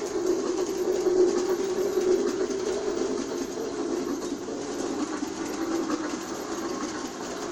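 G scale toy steam train running steadily on its track, a continuous whirr and clatter of motor and wheels with faint clicks.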